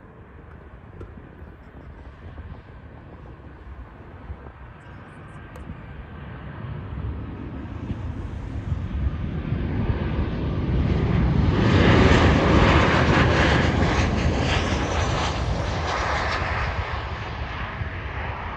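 Boeing 737-8 jet airliner's CFM LEAP-1B turbofan engines on landing approach. The rumble grows steadily louder, is loudest about twelve seconds in as the plane passes closest, then slowly fades.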